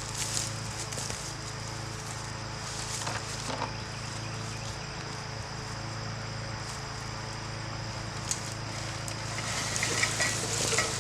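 Crickets chirring in a steady high buzz over a low steady hum, with a few short scuffs about three seconds in and again near the end.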